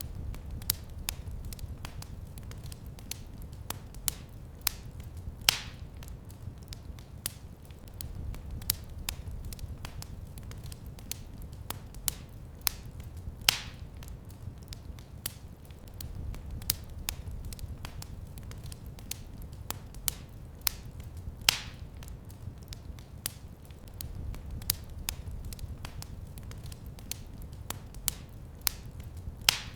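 Fire in a fireplace crackling, with many small clicks and four louder pops about every eight seconds over a low, steady rumble.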